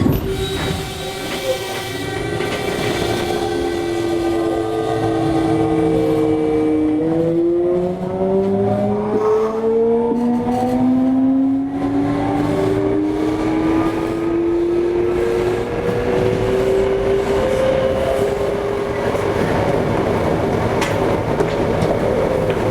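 Toei 5300 series train's inverter motor whine under way, heard from inside the car over the running noise. The whine holds and sinks slightly in pitch, then about seven seconds in jumps and climbs steadily through the rest, the pattern of the train accelerating.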